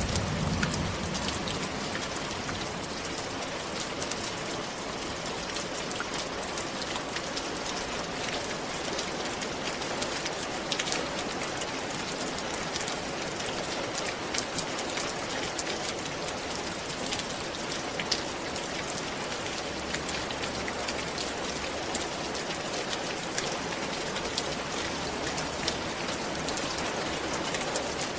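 Steady rain falling on a roof, a dense even patter with many individual drop hits.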